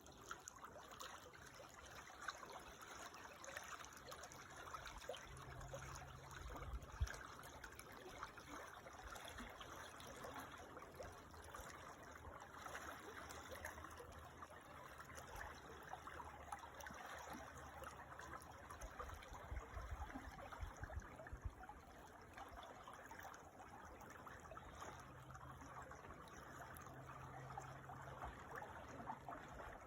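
A creek trickling steadily, faint and even.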